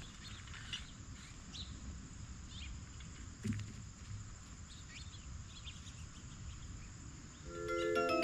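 Quiet outdoor ambience with scattered short, high chirps and a single soft thump about three and a half seconds in. Near the end, marimba-like music with stepped mallet notes starts.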